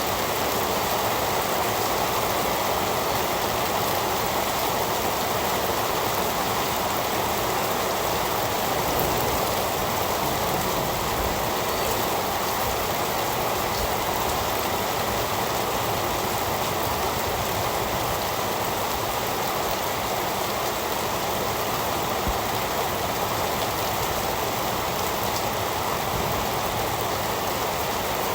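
Heavy rain falling in a steady, even hiss with no thunder.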